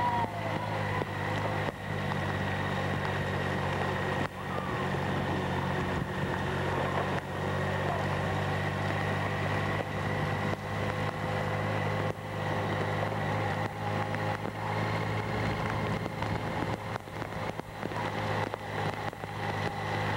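Camera motorcycle's engine running steadily at a slow, even pace, with a steady hiss underneath and a few brief dips in level.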